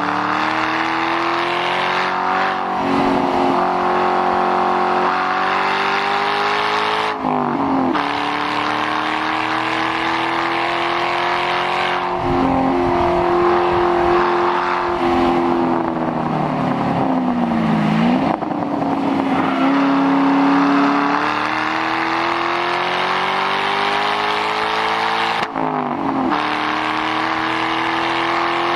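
2006 Mustang GT's 4.6-litre V8 with the mufflers removed, run hard on a track. The revs climb and fall, and quick gear changes break the pitch about a quarter of the way in and again near the end.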